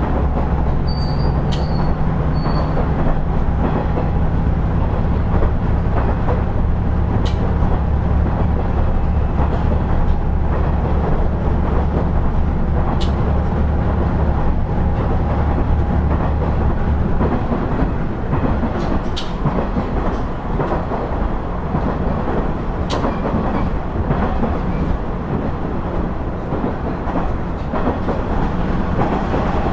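Inside a KiHa 110-series diesel railcar under way: a steady low engine drone under power, which falls away a little over halfway through, leaving the rolling noise of the wheels on the rails. A few sharp clicks from rail joints come through.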